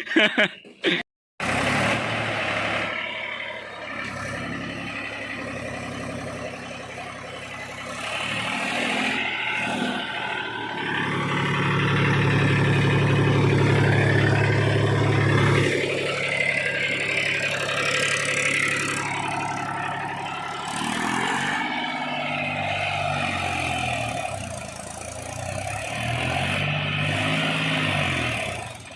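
Mahindra 265 DI tractor's three-cylinder diesel engine running, pulling harder and louder in the middle, then revving up and down several times near the end.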